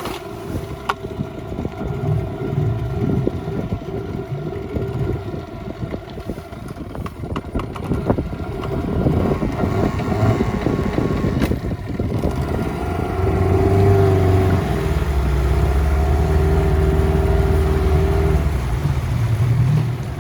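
Gladiator outboard motor running at idle while it warms up, with wind buffeting the microphone. About 13 seconds in the engine note gets louder and shifts pitch, then holds steady.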